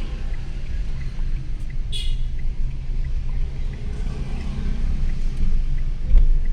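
Car driving slowly in low gear, heard from inside the cabin: a steady low rumble of engine and road noise, with faint regular ticking about three times a second and a brief high chirp about two seconds in.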